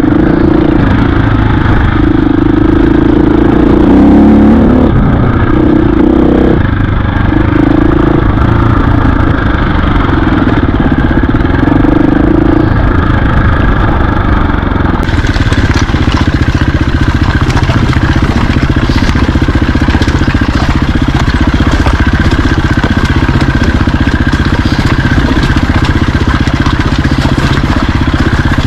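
Dirt bike engine running loudly while riding, its note shifting in steps with the throttle for the first dozen seconds, then steadier.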